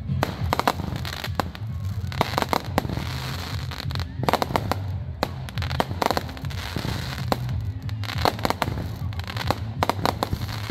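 Aerial fireworks bursting and crackling: many sharp bangs and pops in quick, irregular clusters, over a steady low rumble.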